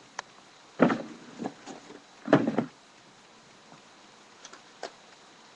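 Handling noises from a pack of sparklers being unboxed: a click, then two short, loud scraping knocks about a second and a half apart, and a few light clicks later on.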